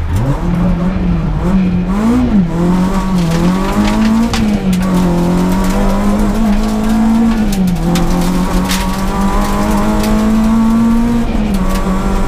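Peugeot 106 S16 rally car's 1.6-litre 16-valve four-cylinder engine under hard acceleration, heard from inside the cabin. The revs drop low for a tight hairpin at the start, then climb, with a short blip about two seconds in, and hold high with upshift drops about eight and eleven seconds in.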